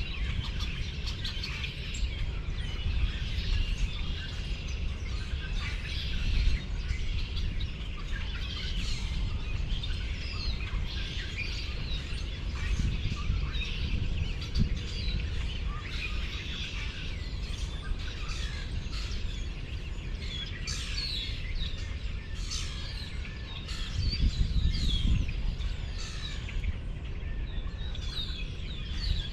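Many small birds chirping and calling over one another, dense and continuous, over a steady low rumble that swells for a second or two late on.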